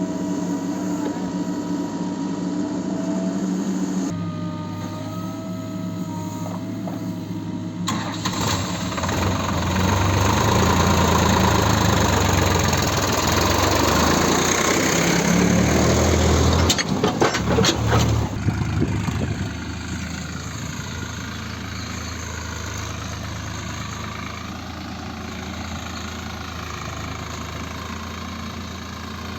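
Diesel engine running, working harder and louder from about eight seconds in for some ten seconds, with a few sharp knocks near the end of that stretch, then settling back to a steady idle.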